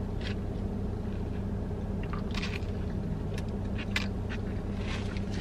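Close-up mouth sounds of someone biting into and chewing a cheeseburger, with a few short smacks, over a steady low hum.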